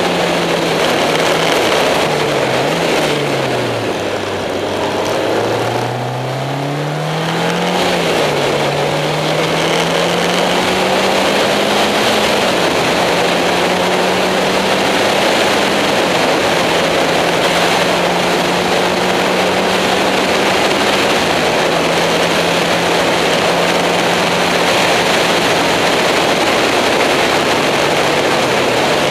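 Caterham Seven engine driven hard on a race circuit, heard from a low-mounted onboard camera under heavy wind and tyre noise. The engine note falls under braking about three to four seconds in, then climbs with two gear changes and holds a fairly steady note at speed for the rest.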